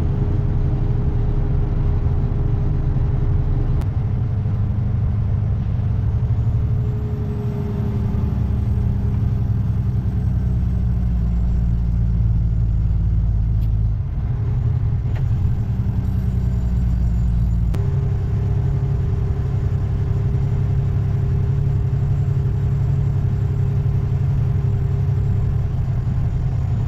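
Heavy diesel dump truck driving, its engine running with a steady low rumble. The engine note shifts about halfway through and changes again a few seconds later.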